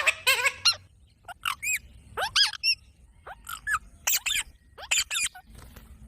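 Parrot calling: a string of short, sharp calls, each rising and then falling in pitch, coming in quick clusters of two or three with short gaps between.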